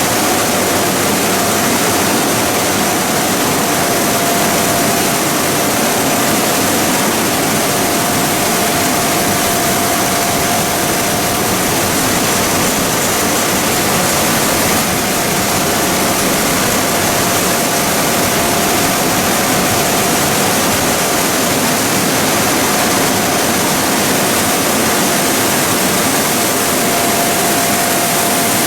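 Plastic pelletizing line machinery running steadily: a loud, even mechanical rush with a constant whine.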